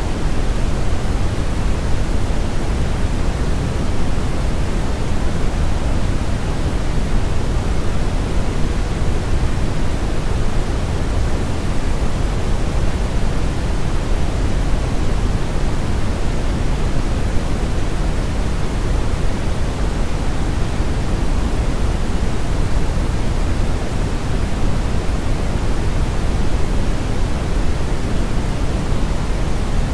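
Steady brown noise: a constant, even rumbling hiss weighted heavily toward the low end, with the highs rolled off, unchanging throughout.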